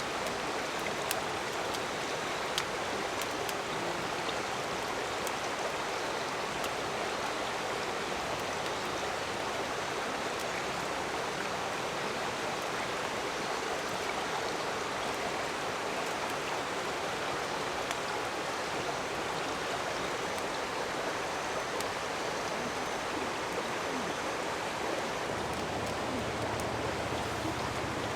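Steady rushing of a river or stream, with a few faint ticks over it; a low rumble joins near the end.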